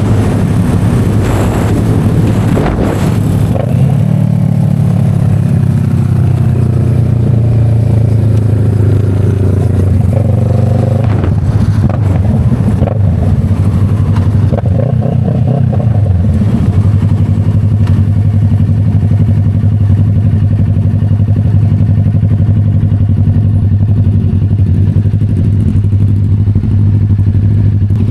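Motorcycle engine running on the move, with the pitch rising and falling several times in the first half as the rider works the throttle and gears, then holding steadier.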